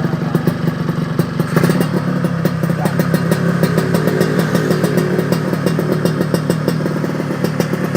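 Yamaha RX-King's two-stroke single-cylinder engine running steadily through a racing exhaust with an SR King silencer, its speed holding even. The note comes as a quick rattle of exhaust pulses.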